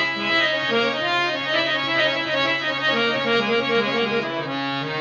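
Harmonium playing the melody of a Marathi devotional abhang over a steady drone, as an instrumental interlude between sung lines.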